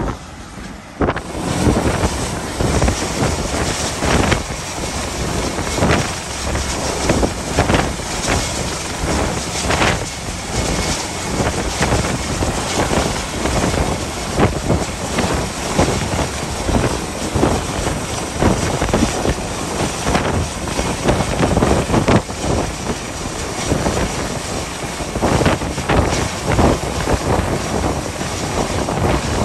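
Gale-force wind buffeting the microphone in irregular gusts, with a heavy low rumble; it drops briefly at the start, then comes back loud about a second in.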